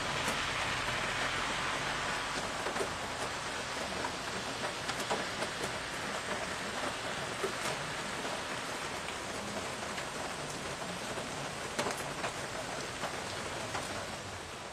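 Steady rain falling on a wet street and foliage, with scattered louder drops pattering close by.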